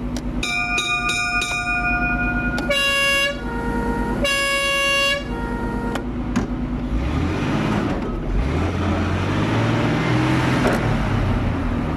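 The 8-litre petrol engine of a 1939 Leyland Cub fire engine running. Its bell rings with rapid strokes, about three or four a second, for a couple of seconds. Two steady horn-like blasts follow, and then the engine revs up.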